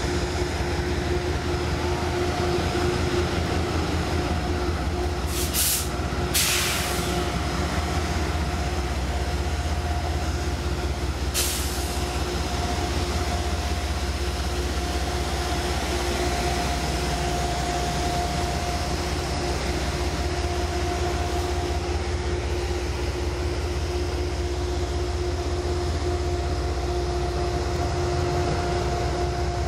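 Diesel locomotive running steadily with a low rumble and a constant two-note hum. A few short hisses come about six seconds in and again near twelve seconds.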